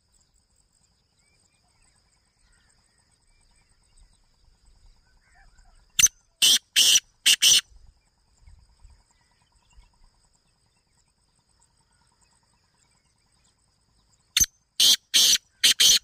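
Caged bird calling in two loud bursts of four harsh notes, one about six seconds in and one near the end. Each burst opens with a short clipped note followed by three longer ones.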